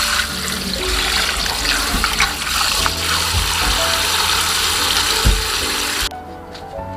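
Water running steadily from a kitchen tap, cutting off suddenly about six seconds in, over background music.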